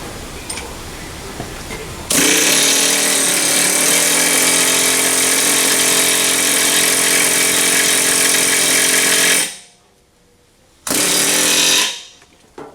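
A power tool hammering steadily in a long burst of about seven seconds, then again briefly about a second later, while the pinion is worked out of the truck's rear axle. Light metallic clinks come before it.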